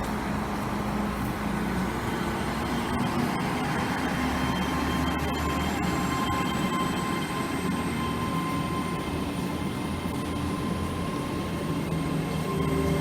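Diesel passenger train running at a station platform: a steady engine drone, with a faint high whine that rises slowly from about five seconds in.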